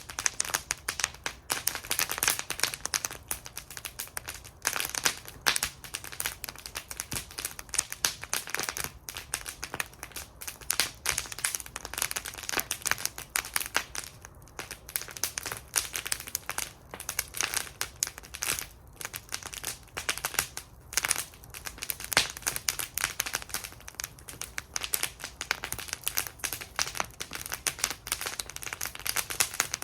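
Wood fire burning in a metal fire bowl, crackling and popping constantly with many sharp snaps.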